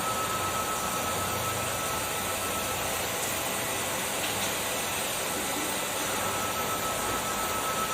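Kärcher vacuum cleaner running steadily: a rush of air with a steady high whine from the motor.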